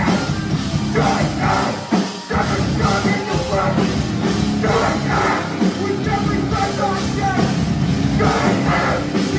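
Hardcore punk band playing live and loud, with sung or shouted vocals over the band; the low end drops out briefly about two seconds in, then the full band comes back.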